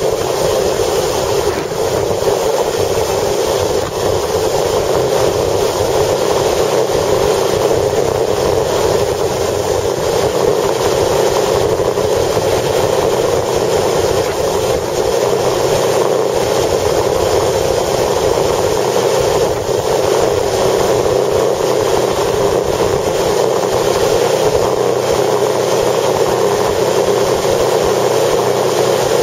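Steady running noise of a vehicle travelling in strong wind: a loud, even rush with no breaks.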